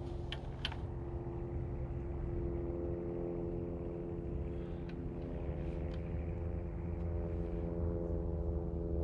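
An engine running steadily at a constant pitch, as a steady hum over a low rumble, with a few small clicks in the first second.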